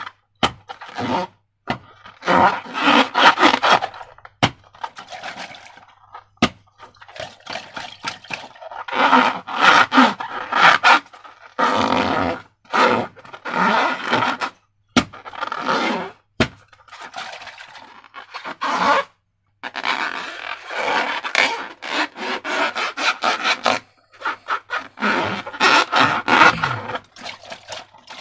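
Slime being squished and worked by hand. It gives sticky, crackling squelches in bursts of a second or two, with short pauses between them.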